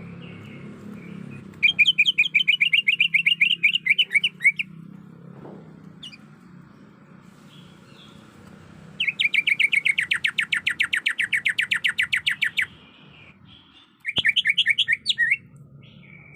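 Cucak ijo (greater green leafbird) calling in three bursts of rapid, evenly repeated chattering notes, the middle burst the longest; a lure call of a female calling a male.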